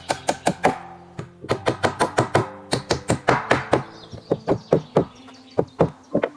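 Rapid runs of sharp knocks from a hand tool striking wood, often four or five blows a second, with short pauses between runs.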